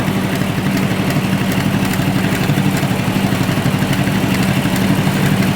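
Tractor engine running steadily under way, heard close up from the ridden tractor, a constant low hum with a fast even pulse.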